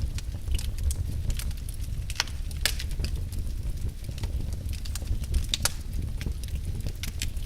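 Wood fire burning in a fireplace: a steady low rumble of flames with irregular crackles and sharp pops from the burning logs, the loudest snaps a little after two seconds in and again around five and a half seconds in.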